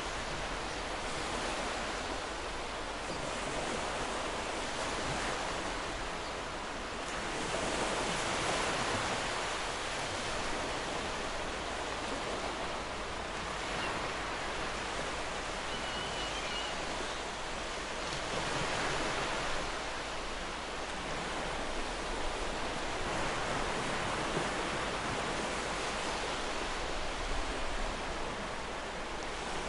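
Ocean waves washing onto a beach: a steady rush of surf that swells every few seconds as each wave breaks.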